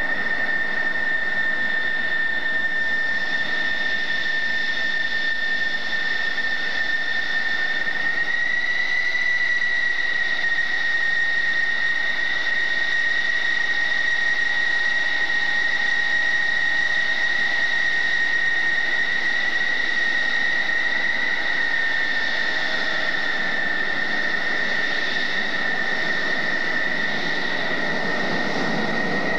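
F-14D Tomcat's General Electric F110 turbofan engines running with a steady high whine over a rushing noise. The whine lifts slightly in pitch about eight seconds in and eases back down near the end.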